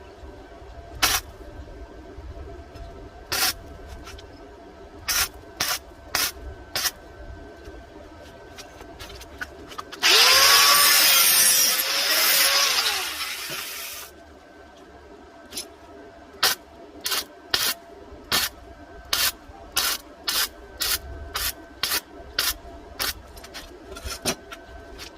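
Arc welding on galvanized steel box tube: many brief tack welds, each a short sharp zap, then one continuous weld run of about four seconds near the middle, then more quick tacks. A faint steady hum runs underneath.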